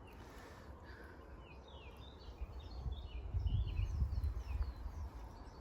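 Small birds chirping and singing, a quick run of short falling notes. A low rumble on the microphone swells up about three seconds in and is the loudest part.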